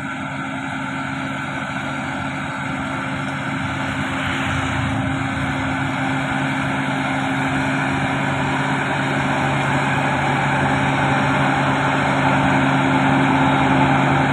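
Diesel engine of heavy road-construction equipment running steadily, growing gradually louder.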